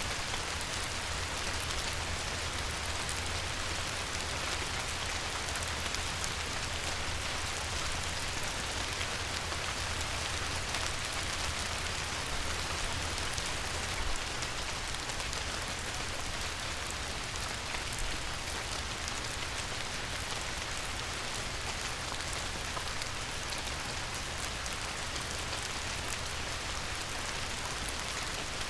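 Light rain falling on a river, a steady even hiss of many small drops pattering on the water.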